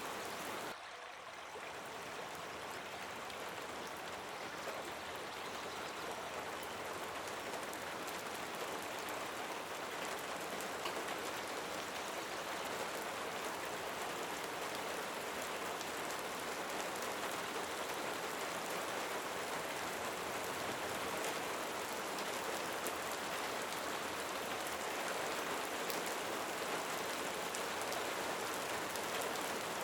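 Steady rain falling, a dense even patter of drops, with a brief dip in level about a second in.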